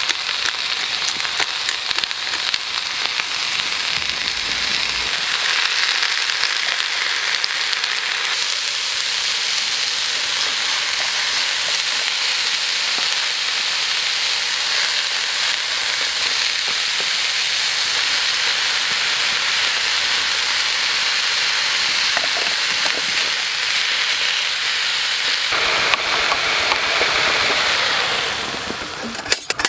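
Cabbage, bean sprouts and carrot sizzling steadily as they stir-fry in a pan on a storm-cooker alcohol stove. The sizzle dies away near the end as the pan is lifted off the flame.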